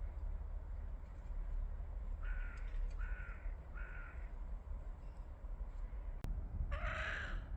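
A bird gives three harsh calls of about half a second each, evenly spaced, then a louder call near the end, over a steady low rumble.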